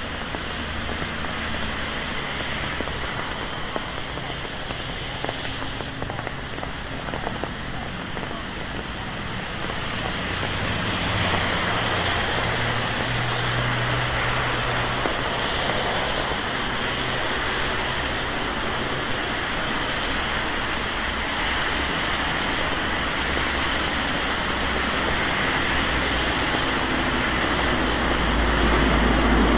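Steady rain on a city street, with traffic hissing past on the wet road; it grows louder about ten seconds in, with a low rumble of passing vehicles.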